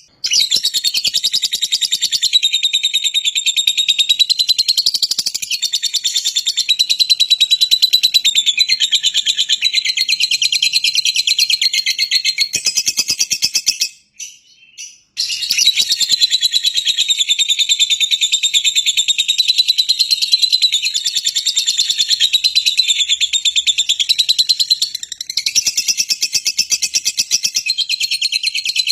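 Lovebird chattering: a fast, unbroken run of high, shrill chirps that breaks off for about a second around halfway, then starts again.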